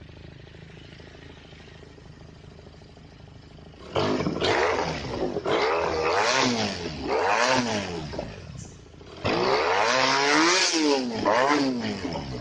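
Benelli TNT300 parallel-twin motorcycle engine through an aftermarket exhaust, idling quietly, then blipped hard about four seconds in: a string of loud revs rising and falling in pitch, a brief drop back toward idle, then another run of revs near the end.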